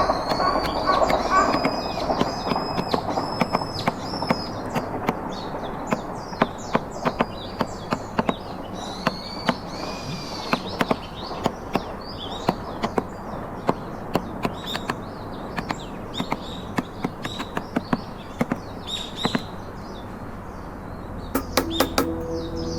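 Sharp, irregular taps of a carving chisel being struck into trembesi wood, with birds chirping in the background. A few steady musical tones come in near the end.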